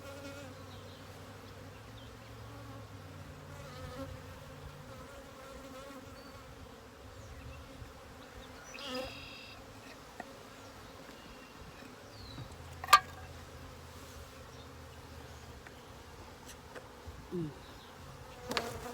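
Honeybees buzzing around an open hive, a steady hum with single bees flying past, their pitch wavering and one falling away near the end. About two-thirds of the way through there is a single sharp click.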